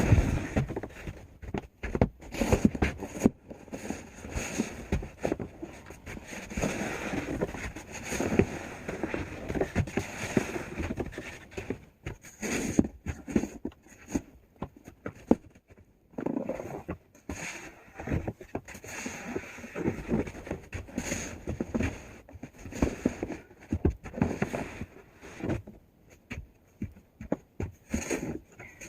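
Snow shovel scraping and pushing heavy, wet snow, in uneven strokes with short pauses between them.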